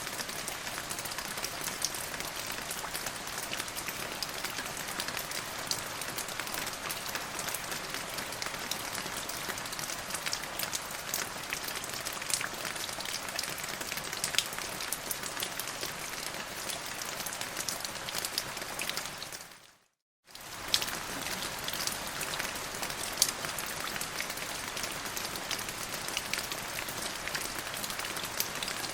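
Steady rain falling on a surface, an even hiss full of small drop ticks. About two-thirds of the way through it fades out to silence for about half a second, then starts again.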